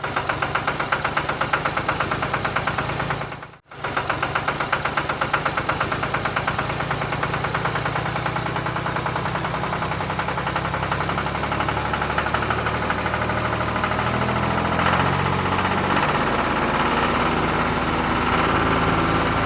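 Tractor engine running steadily with a fast, even chugging beat, broken by a brief cut about four seconds in.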